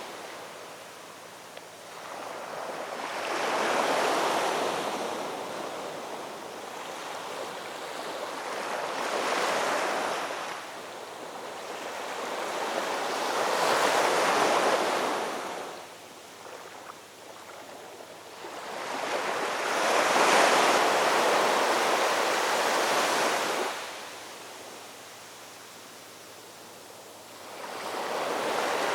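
Ocean waves breaking on a shore in slow surges, each swelling and washing back about every five to six seconds, with quieter lulls between.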